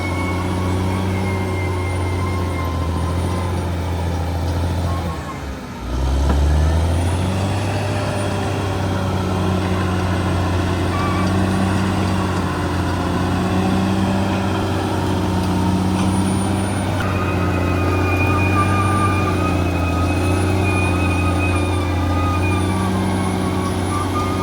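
Bulldozer's diesel engine running steadily under load, with thin high-pitched whining tones over it. About five seconds in the engine sound drops briefly, then picks back up.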